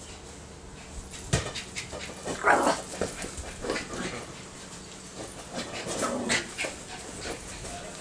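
A dog panting and making short breathy whines while playing with a soccer ball, with scattered knocks and taps, the loudest about a second in.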